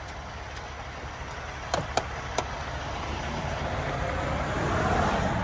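Semi truck's diesel engine running, heard from inside the cab, growing steadily louder as the truck pulls away, with a few sharp clicks about two seconds in.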